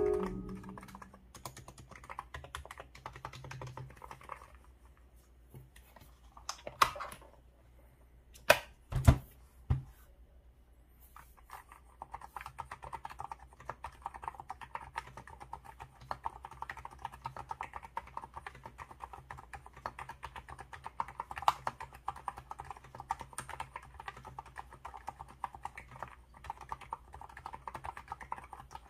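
Typing on an ABKO electro-capacitive (Topre-style) keyboard. There are light scattered keystrokes and a few louder knocks in the first third, then a brief pause, then steady rapid typing.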